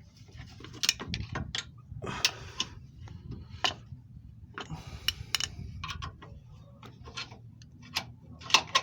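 Metal clicks and short scrapes of a screwdriver working against a car engine mount and its bracket while the mount is levered into line, irregularly spaced, over a low steady hum.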